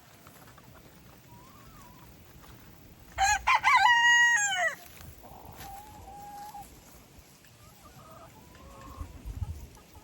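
A rooster crows once, about three seconds in: a few short notes, then a long held note that drops off at the end. Chickens cluck softly before and after.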